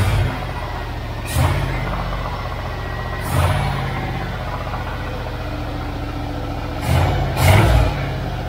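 1978 Dodge Aspen R/T engine running at a steady idle, with a few short revs at about one and a half, three and a half and seven seconds in.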